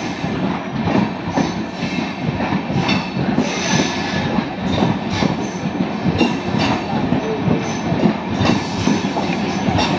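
LHB passenger coaches of the 13009 Doon Express rolling past, wheels clattering over the rail joints in a steady run of irregular clicks, with brief high wheel squeals now and then.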